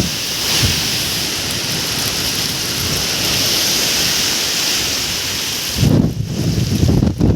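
Heavy storm rain pouring in a steady hiss. About six seconds in it gives way to loud, uneven low rumbling.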